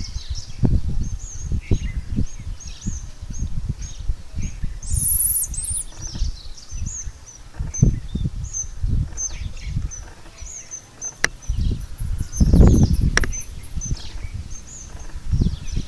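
Birds chirping, short high notes repeated about twice a second. Irregular low thumps run under them, with a louder low rumble about twelve seconds in.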